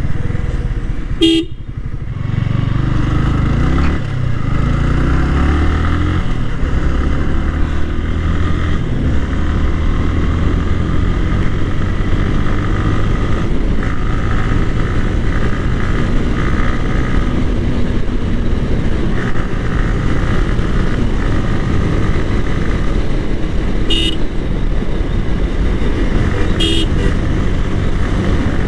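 Yamaha R15 V3's single-cylinder 155 cc engine running steadily while riding, its pitch rising and falling over the first several seconds as speed changes. Short horn toots sound three times: about a second in, and twice near the end.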